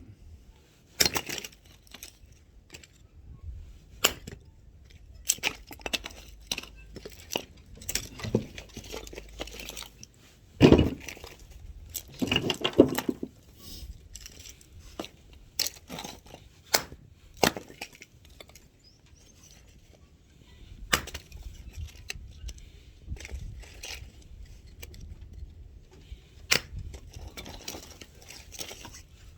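Axe chopping firewood: a dozen or so sharp wooden knocks and cracks at irregular intervals, a few seconds apart. The loudest come together about midway through.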